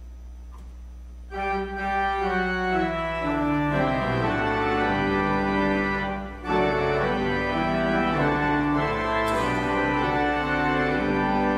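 Church organ starts playing about a second in: held chords with notes moving beneath them. There is a brief break about six seconds in before the playing continues.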